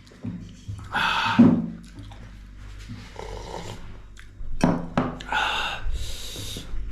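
Close-up mouth sounds of eating rice and soupy goat curry: a few bursts of slurping and sharp, hissing breaths, with small lip and mouth clicks between them.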